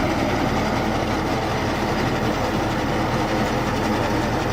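Tractor-operated reaper binder cutting standing wheat: the tractor engine and the reaper's cutting mechanism running steadily together.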